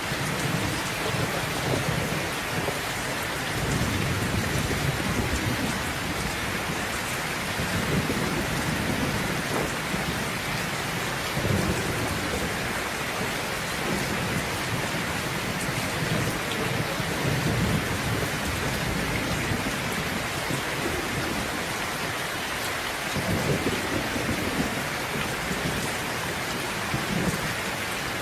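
Steady rain with thunder rumbling low again and again through it.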